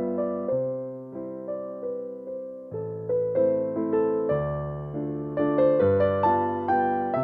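Background music: soft piano, notes struck one after another and left to fade, with low bass notes under a gentle melody.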